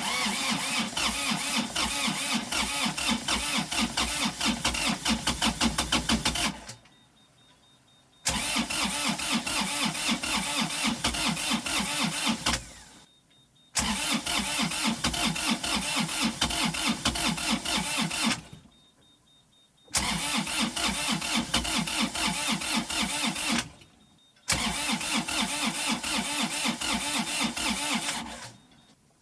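Inboard marine diesel engine being cranked on its starter motor in five separate attempts of about four to six seconds each, with short pauses between, without catching. The engine is being turned over after hand-pumping the lift-pump lever to bleed air from the fuel system.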